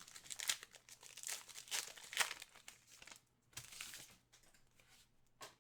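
Trading card packaging crinkling as cards and packs are handled, in dense crackling bursts for about four seconds and then once more briefly near the end.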